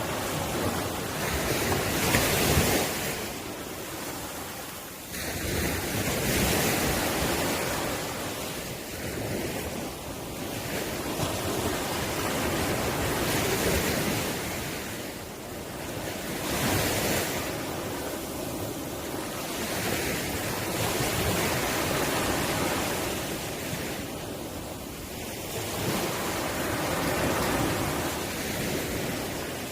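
Ocean waves breaking on the shore, the surf swelling and falling back every few seconds.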